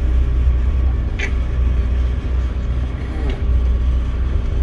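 Passenger train running, a steady low rumble heard from on board.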